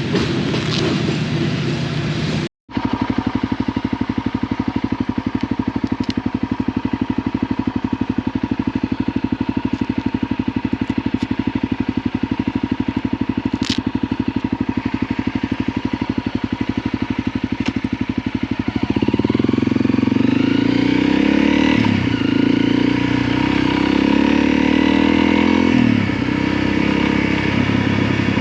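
Motorcycle engine running with a steady, even pulse. About two-thirds of the way in it gets louder, its pitch rising and falling as it accelerates and changes speed.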